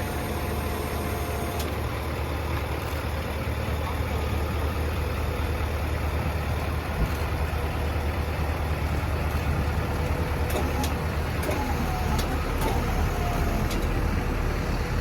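Heavy transport truck's engine running steadily at low revs, with a single short knock about seven seconds in.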